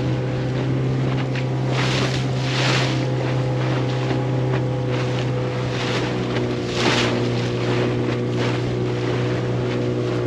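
Motorboat engine running at a steady speed, with rushes of wind and water noise every second or two.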